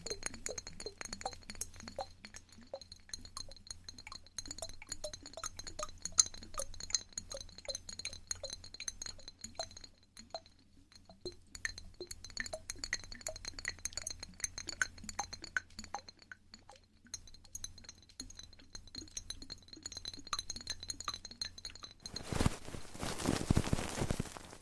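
Quiet, rapid small clicks and clinks of close-miked ASMR trigger sounds, with a rushing noise starting near the end.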